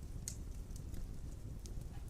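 Wood fire burning in a stone fireplace: a low steady rumble of flames with sharp, irregular crackles and pops, one strong pop about a quarter second in.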